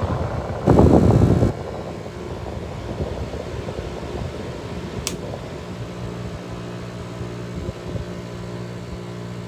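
Carrier window air conditioner running on high fan with a steady rush of air. A loud, short burst of noise comes about a second in and a sharp click near five seconds, and a low hum grows stronger from about six seconds on.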